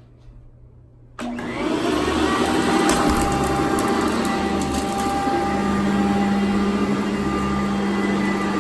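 Sanitaire vacuum cleaner switched on about a second in, its motor spinning up and then running steadily with a high whine.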